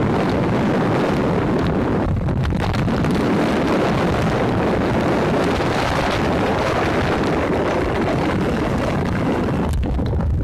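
Strong wind buffeting the microphone: a steady, loud rumbling noise heaviest in the low end.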